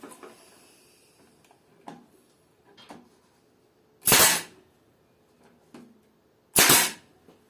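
Two loud hammer blows driving 3 cm nails into pallet wood, about two and a half seconds apart, with a few light knocks of handling the nails and boards before and between them.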